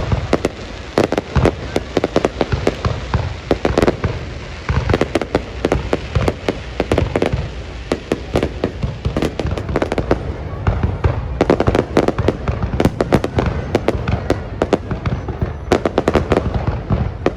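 Fireworks display: a continuous barrage of shells bursting, many sharp bangs a second over a low rumble.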